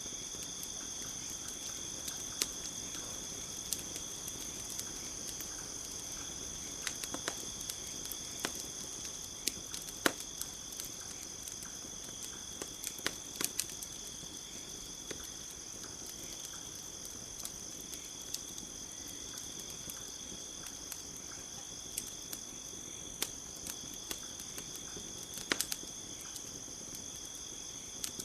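Steady chorus of crickets with a campfire crackling over it: scattered sharp pops and snaps, the loudest about ten seconds in, with a small cluster around thirteen seconds.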